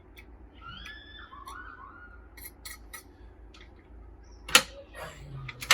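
Metal parts and tools clinking and knocking as the vintage slicer is handled, with scattered light clicks and two sharp metallic knocks near the end.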